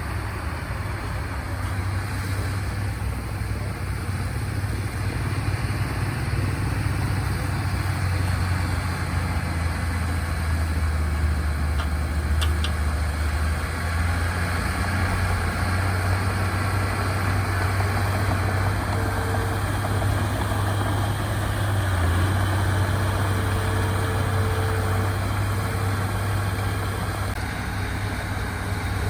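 Diesel engine of heavy earthmoving equipment running steadily at a low, even hum, with no revving.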